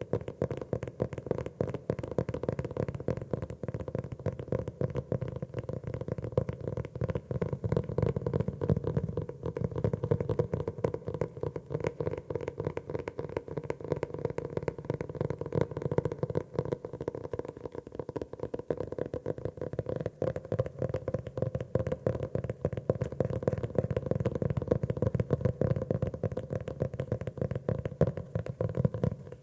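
Fingers tapping rapidly and continuously on a notebook cover, a dense run of soft, dull taps.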